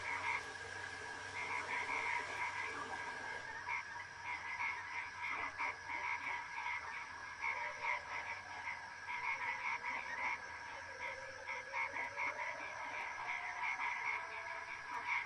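A chorus of frogs calling, many short croaks repeating and overlapping without a break.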